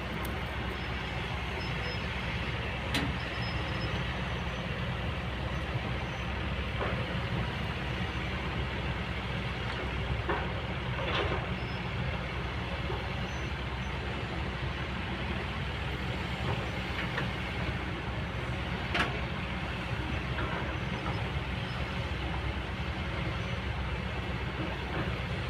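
Kobelco hydraulic excavator's diesel engine running steadily under working load, with a few short metallic knocks from the machine, the loudest about three quarters of the way through.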